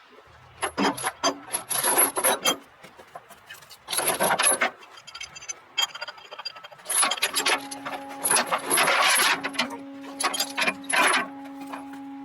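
Tie-down chains and binder hardware rattling and scraping in repeated bursts while a load is chained down, with a steady hum coming in about seven seconds in.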